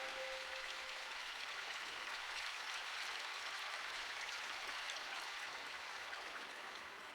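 Steady rain with a fine high patter of scattered drops. A sustained tone dies away in the first second, leaving only the rain.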